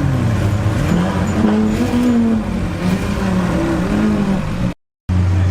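Exotic sports car engines revving and running at low speed, the pitch rising and falling. The sound drops out briefly near the end, and then a steady low engine drone follows.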